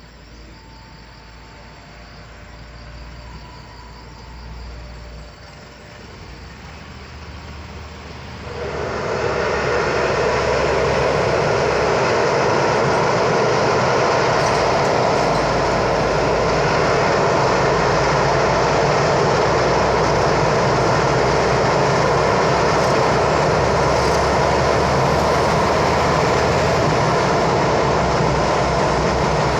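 Passing train: a fainter approach, then about eight seconds in a sudden loud, steady rumble and clatter of the train running past close by.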